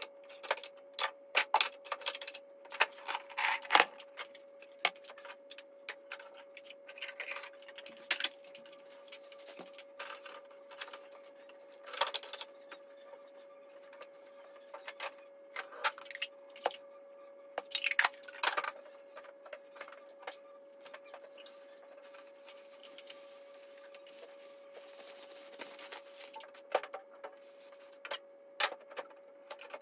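Irregular clicks and light rattles, coming in scattered clusters, over a faint steady tone.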